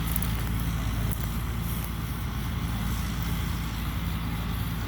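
Combine harvester's diesel engine running steadily under load in the field, a constant low hum with machinery noise over it.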